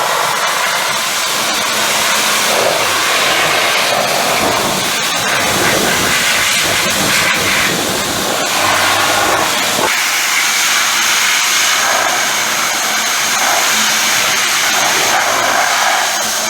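Pressure washer spraying water onto a Mazda Bongo truck: a loud, steady hiss of the jet, shifting in tone as the spray moves over the bodywork.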